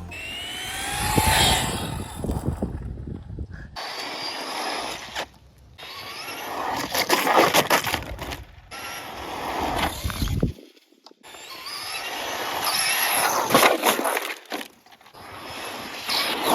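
Traxxas Slash 4x4 RC truck driving on wet pavement: electric motor whine rising with speed over the hiss of the tyres. The sound comes in several short clips that cut off suddenly.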